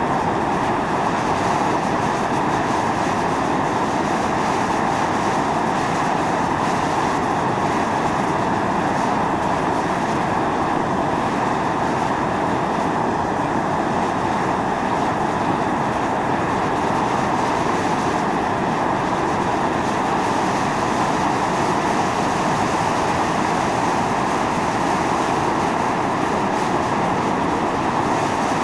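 Volcanic fumarole venting steam and gas under pressure: a steady, unbroken rushing hiss that neither swells nor fades.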